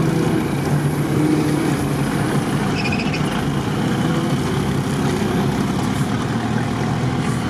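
Off-road 4x4's engine running steadily as the vehicle drives along a rough forest track, heard from inside the cab.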